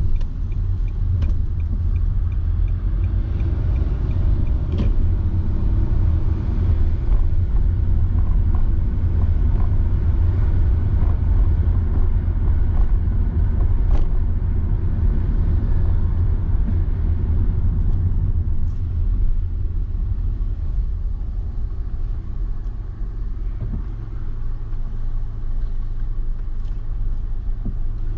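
Road noise of a car being driven: a steady low rumble of tyres and engine. A light, regular ticking runs over it for the first few seconds.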